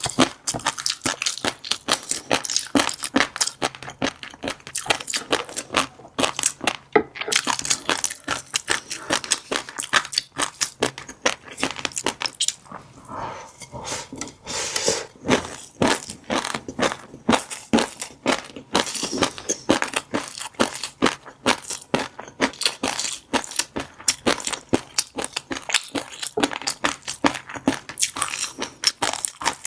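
Fish roe crackling and popping in rapid, dense clicks as a mouthful is chewed close to the microphone.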